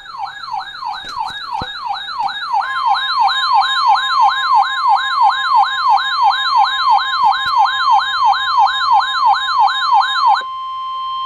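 Emergency alert: a fast warbling siren sweeping up and down about three times a second, joined a couple of seconds in by a steady high alert tone like a weather radio warning tone. The siren stops near the end and the steady tone carries on alone.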